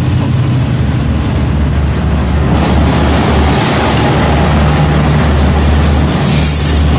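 Pakistan Express passenger train running past close by: a loud, steady rumble of wheels on rails, with a brief harsher hiss of metal noise near the end.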